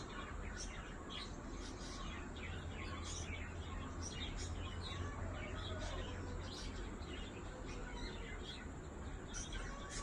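Small birds chirping: many short, high chirps from several birds, close together and overlapping.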